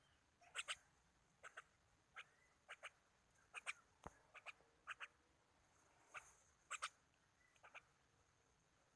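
Pet bird giving short, sharp chirps, often in quick pairs, repeated irregularly every half second to a second.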